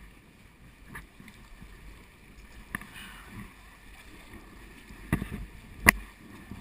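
A kayak on the water: gentle lapping and paddle water noise, with a few sharp knocks, the loudest near the end.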